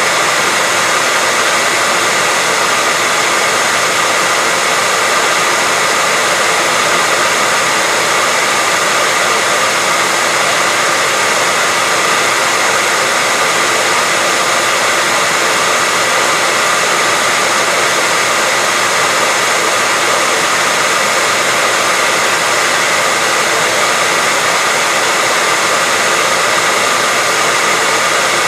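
Hair dryer running steadily, a constant loud rush of air over the motor's whine, with no change in pitch or level.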